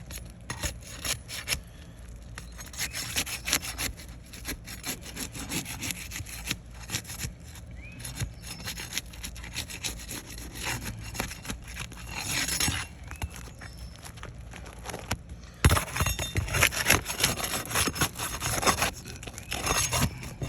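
Asphalt roof shingles being pried up with a flat bar: repeated scraping and crackling as the shingles' adhesive seal strips tear loose. There is a sharp knock about three-quarters of the way through, and the scraping is busier and louder after it.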